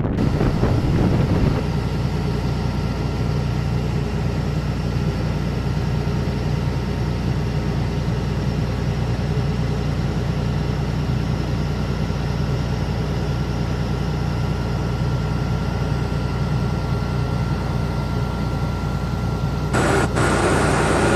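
Airliner jet engines running steadily at idle: a constant low rumble with a steady high whine over it. The sound changes abruptly near the end.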